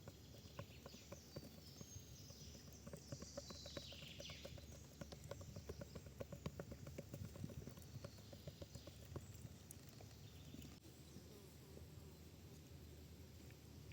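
A rapid run of light knocks, several a second, that thins out about ten seconds in.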